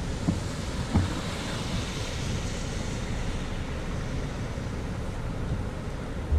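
Steady rumbling road and tyre noise of a car driving, with two short thumps in the first second.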